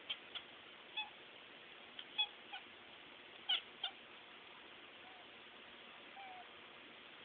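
Domestic cat making a quick series of short, high chirp-like calls, then two fainter, slightly drawn-out calls near the end.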